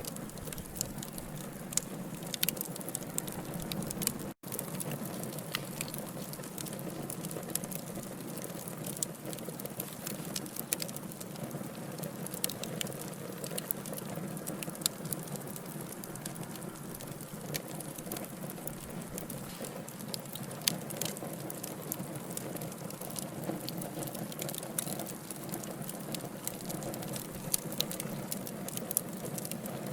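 Wood fire burning in a fireplace: a steady low hiss and rumble of the flames with frequent sharp crackles and pops from the logs. The sound cuts out for a split second about four seconds in.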